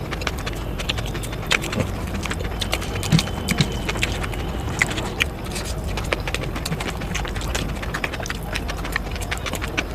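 Close-miked eating sounds: irregular chewing clicks and crunches with a few louder snaps, over a steady low background hum.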